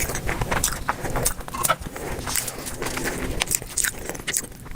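Close-miked eating sounds: irregular wet chewing and mouth clicks, several a second.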